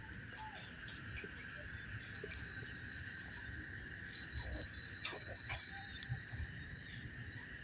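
Steady night-time chorus of crickets and other insects, with a nearby cricket breaking into a loud, high, evenly pulsed chirping trill of about eight pulses for roughly two seconds past the middle.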